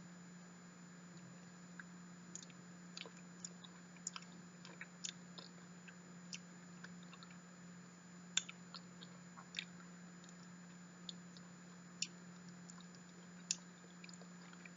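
Soft, irregular mouth clicks and smacks of someone chewing soft, custardy durian flesh, faint, with a few sharper clicks, over a steady low hum.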